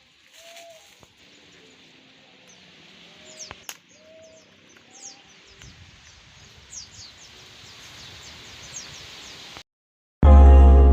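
Birds calling in outdoor ambience: a few short low hooting notes and a run of quick high chirps. Near the end the sound cuts out briefly and loud music begins.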